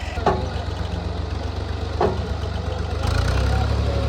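Massey Ferguson 385 tractor's four-cylinder diesel engine running steadily while driving a mustard thresher, growing louder about three seconds in. Two short sharp knocks stand out, near the start and about two seconds in.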